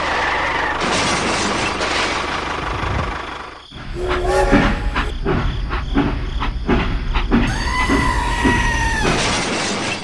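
Train sound: a few seconds of hissing, then the rhythmic clickety-clack of wheels over rail joints, about three clacks a second over a low rumble, with a steady two-note train horn held for about a second and a half near the end.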